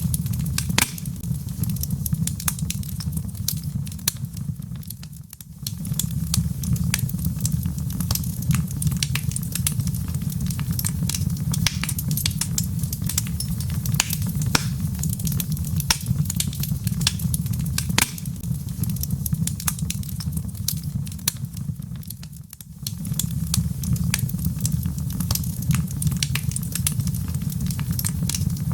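Wood fire in a fireplace: logs crackling with many sharp pops over a steady low rumble. The whole sound dips briefly twice, about five seconds in and again some seventeen seconds later.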